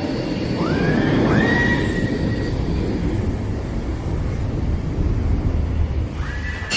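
Jet aircraft engine noise: a steady rumble with turbine whines that rise in pitch and then hold, twice near the start and again near the end.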